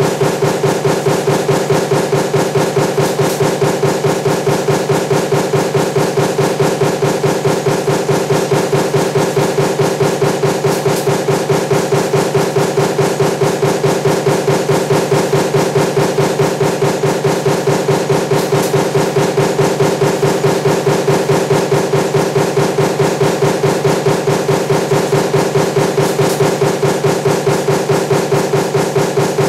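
Power punch press running continuously with a die for table fan motor parts, striking in a fast, even rhythm of several strokes a second over a steady hum.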